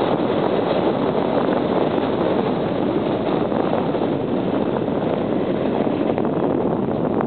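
JR 583 series sleeper electric train running across a river bridge: a steady rumble with no distinct clicks, mixed with wind on the microphone.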